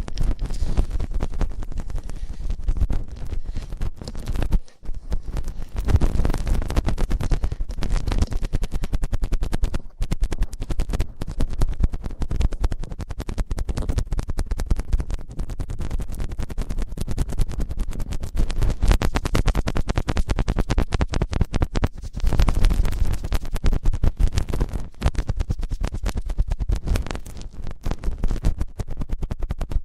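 ASMR ear-cleaning sounds: scratching and rubbing right against the microphone, a dense, unbroken run of crackles with a heavy low rumble.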